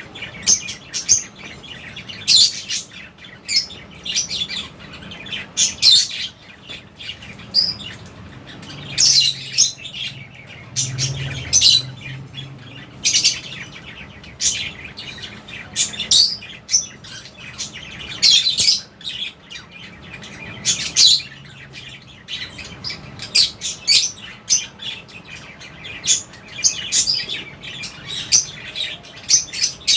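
A flock of lovebirds chirping in an aviary: many short, high-pitched calls overlapping and repeating all through.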